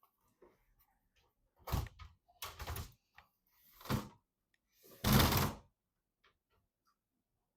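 PC parts being handled during assembly: four short scraping, rubbing knocks, the last and loudest about five seconds in.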